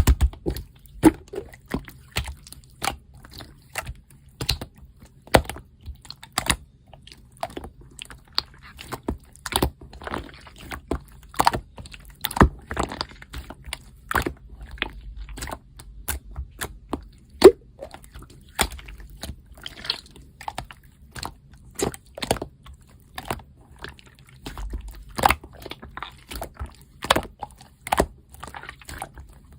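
Slime being squeezed and poked by hand, giving irregular sticky clicks and pops.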